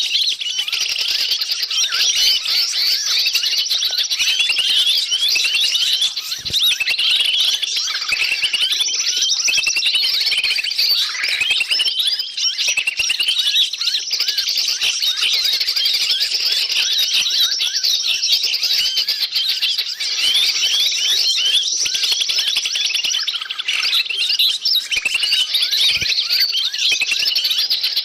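Dense, unbroken chorus of many small forest birds giving rapid, high chirps and squeaky calls that overlap one another: a noisy bird-lure (pikat) recording used to draw wild birds in.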